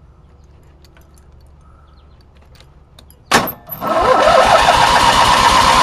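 Small clicks of a key being worked, then a racing lawn mower's new engine is cranked by its starter and catches within about half a second, running loud and fast with rapid pulses and a steady high whine. It starts unassisted on fuel from the tank.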